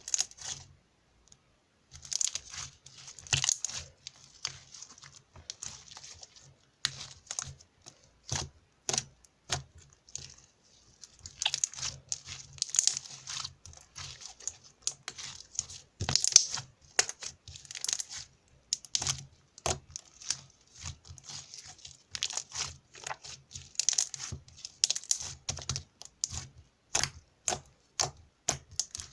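Slime being squished, stretched and pressed by hand, making irregular sticky pops, crackles and clicks.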